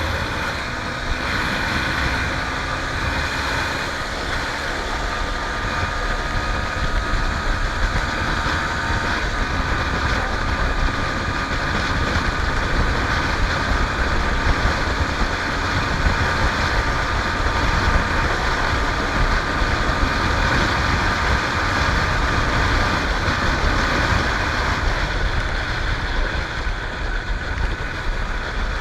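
Honda Tornado 250 motorcycle's single-cylinder engine running steadily under way, mixed with a low, even rush of wind.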